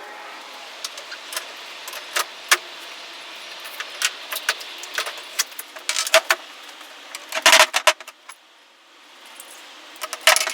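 Metal parts and tools clinking and clattering as they are handled, a string of sharp clicks with a louder clatter about seven and a half seconds in and another near the end.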